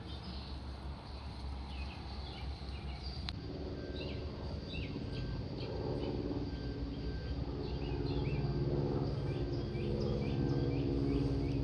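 Small birds chirping repeatedly outdoors. From about three seconds in, a low drone of several steady tones joins them and grows gradually louder.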